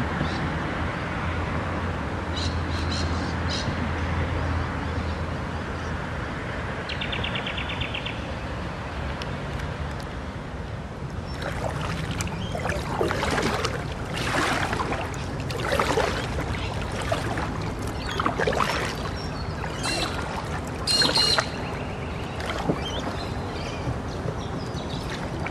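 Birds calling and chirping along a creek over a steady background hum. A short rapid trill comes about seven seconds in, and a busier run of calls fills the middle stretch.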